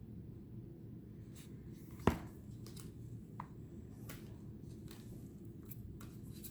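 Tarot cards being handled: faint sliding and tapping of card stock as the next card is turned over, with one sharper tap about two seconds in, over a low steady room hum.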